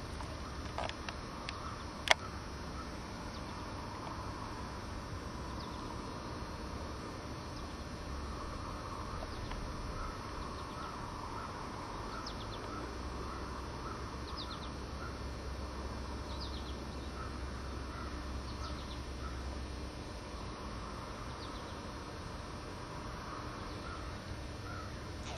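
Outdoor ambience with faint birds calling: a short call repeated about every half second and a few high falling notes, over a steady low rumble. A single sharp click sounds about two seconds in.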